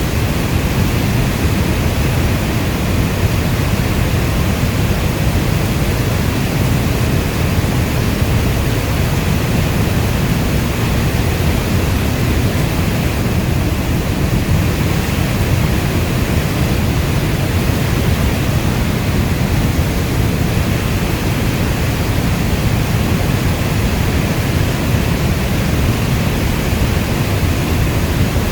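Steady heavy rainfall: an even, dense hiss with a strong low rumble underneath, unchanging throughout.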